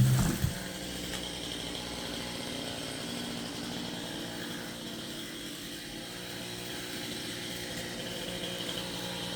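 A chainsaw's loud cutting noise breaks off in the first half second, leaving a quiet, steady engine hum with a faint high hiss.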